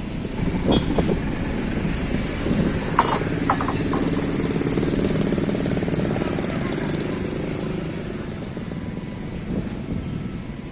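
Heavy construction machinery's engine running, growing louder after a few seconds and then easing off, with a few sharp knocks near the start and about three seconds in.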